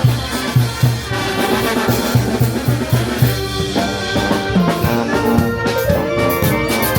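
Peruvian brass band playing, trumpets and trombones over a steady low beat; about halfway the beat breaks up and the brass moves to longer held notes.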